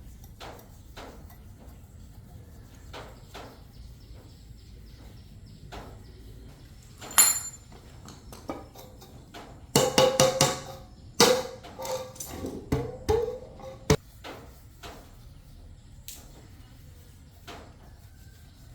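Metal parts and hand tools being handled: scattered small clicks and knocks, one sharp ringing clink about seven seconds in, then a run of loud, ringing metallic clanks from about ten to fourteen seconds in.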